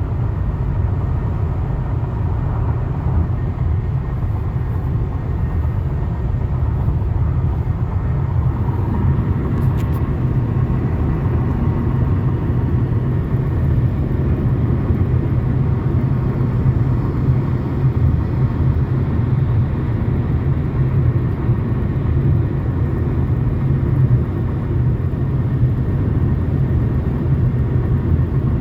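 Steady low road and tyre rumble inside a Toyota Camry's cabin while it is driven.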